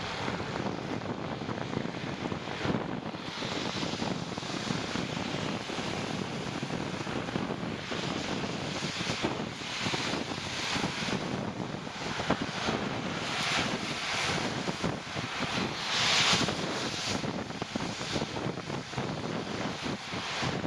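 Wind rushing over the microphone of a moving bicycle: a steady hiss that swells in gusts every few seconds.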